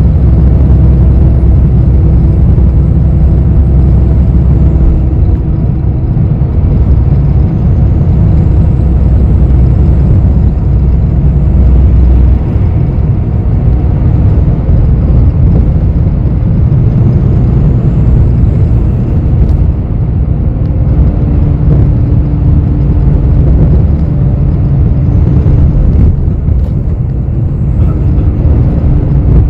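City bus running, heard from inside the passenger cabin: a steady low engine and road rumble whose pitch and weight shift as the bus speeds up and slows, heaviest in the first dozen seconds.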